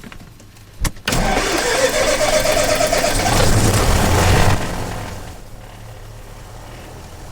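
Loud electrical interference noise in a GoPro's cockpit audio from a Cessna 172 with a Garmin G1000: a sudden rushing hiss with a wavering mid tone starts about a second in, then fades after a few seconds to a lower steady hum.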